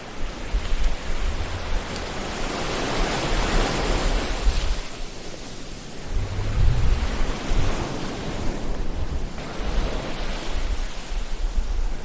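Ocean waves washing onto the shore, the surf noise swelling and falling away in slow surges: one builds through the first few seconds and drops about five seconds in, another rises around seven seconds in, with a low rumble underneath.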